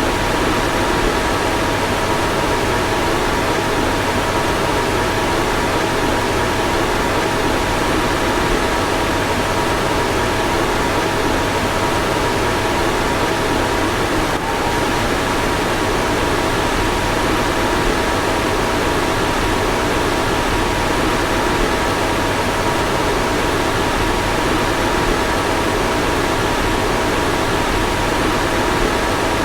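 Car fan running steadily: a constant rush of air with two faint steady whining tones, broken only by a tiny blip about halfway through.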